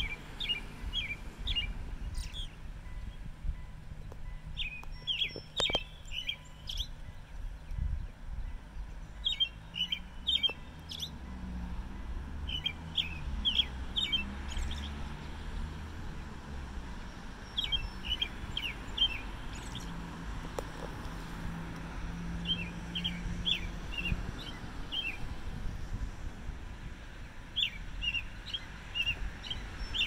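A songbird singing: about seven short phrases of quick, high chirping notes, each a second or so long, repeated every few seconds. A steady low rumble runs underneath.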